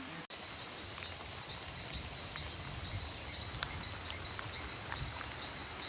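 Amazon rainforest ambience: a steady high-pitched chorus of calling animals over an even hiss, with scattered small ticks. The sound cuts out for a moment just after the start.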